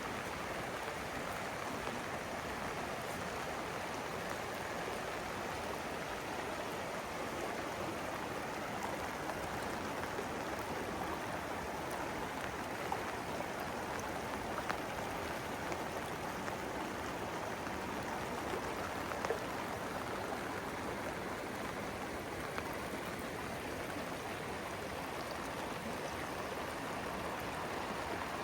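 Steady rain falling together with running water, an even hiss with a few louder drips.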